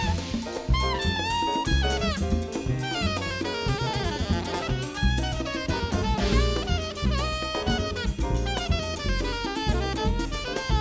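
Live Latin jazz band playing: a saxophone runs fast melodic lines over drum kit and hand percussion.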